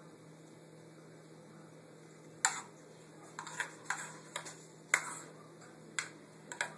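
After a quiet start, a spoon clicks and taps against a bowl about eight times at uneven intervals while scooping mashed potato filling.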